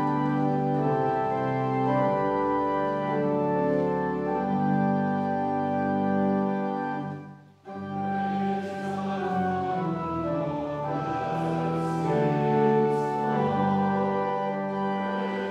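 Organ playing slow, sustained chords as offertory music. It breaks off briefly about seven and a half seconds in, then music resumes with a fuller sound.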